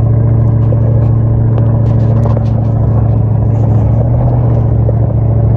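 Dodge Ram pickup's engine running steadily under load as the truck climbs a rough dirt mountain trail, with a few faint clicks and rattles over the drone.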